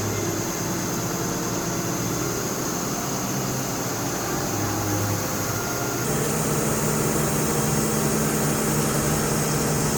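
A motor or machine running steadily with a low hum and a high hiss; the hum shifts to a different pitch about six seconds in.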